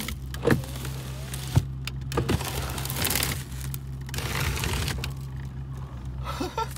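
The 2000 Mercury Grand Marquis's 4.6-litre V8 idling steadily after a cold start, with irregular crackling, crinkling noise and a few short squeaks over it.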